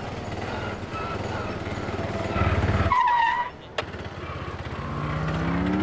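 Small engine of a three-wheeled Piaggio Ape putting past close by, loudest about halfway through and then cutting away suddenly; near the end an engine speeds up with a rising pitch.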